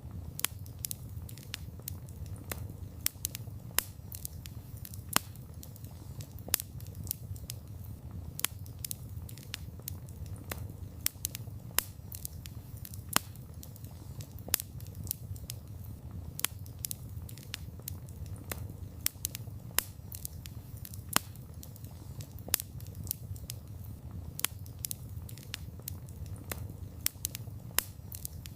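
Wood campfire burning: a steady low rumble of flames under frequent, irregular sharp crackles and pops from the burning wood, several a second.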